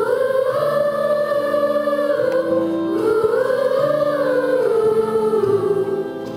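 A slow song: a voice sings two long, smoothly rising and falling phrases over steadily held accompaniment notes.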